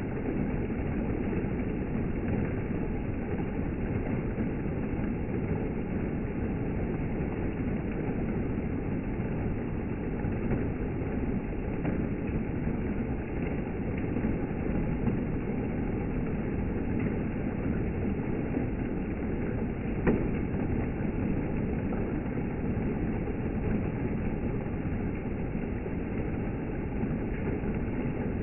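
Steady rainfall: an even, low rushing noise without breaks, with one brief tap about twenty seconds in.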